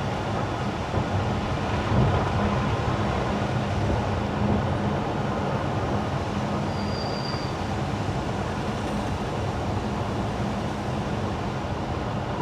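Car driving on wet winter asphalt: steady tyre hiss and road noise over a low, even hum. A brief faint high tone sounds about seven seconds in.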